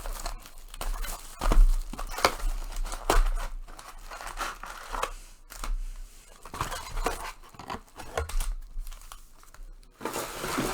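Trading card packaging being torn open by hand: irregular rips and crinkling of foil pack wrappers and box wrapping.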